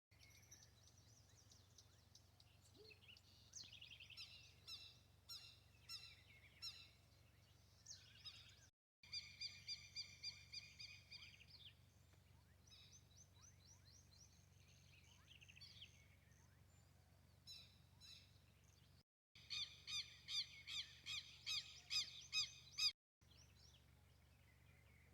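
Faint bird calls: several bursts of repeated sharp, high notes, the loudest run coming at about three notes a second in the later part, broken by a few abrupt silent gaps.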